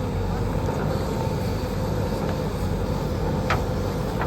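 Tractor diesel engine running steadily, with a brief sharp sound about three and a half seconds in.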